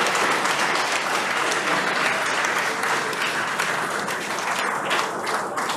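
A crowd applauding steadily in celebration of the confirmed Falcon 9 booster landing, thinning out near the end.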